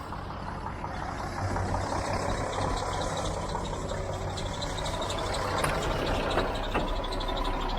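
Heavy truck's diesel engine running, a steady low hum with noise on top, growing gradually louder.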